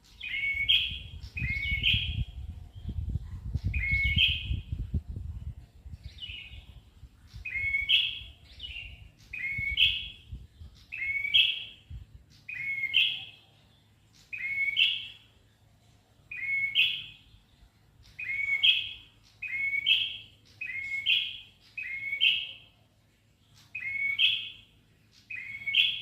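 Prenjak kepala merah, a small Indonesian songbird, calling over and over in vigorous, steady song, one short sharp call about every second and a half. A low rumble sits under the calls for the first few seconds.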